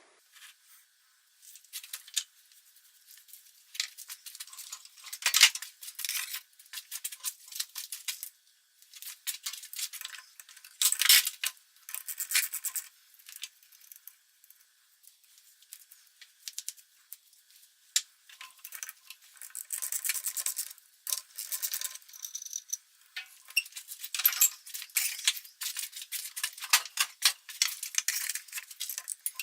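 Bursts of light metallic rattling and clicking, coming and going in uneven clusters, from small metal parts and tools being handled at the lathe.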